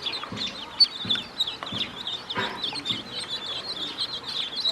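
A group of ducklings peeping without pause: many short, high chirps overlapping. There is a brief noisy burst about halfway through.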